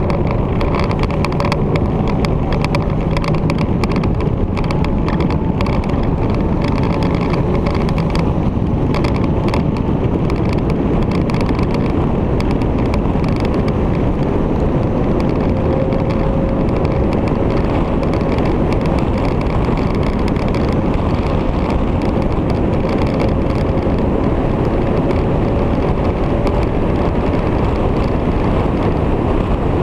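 Victory motorcycle underway at a steady speed: a constant loud rush of road and wind noise, with a faint engine drone whose pitch drifts slowly.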